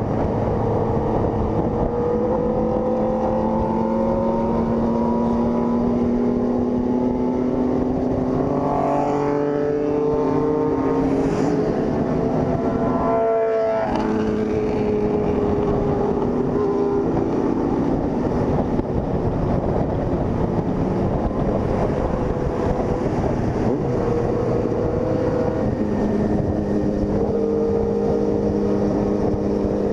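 Honda CG 160 Fan single-cylinder motorcycle engine running steadily on the road, with wind rushing over the microphone. Around the middle the engine note climbs and then breaks off briefly, as in a gear change.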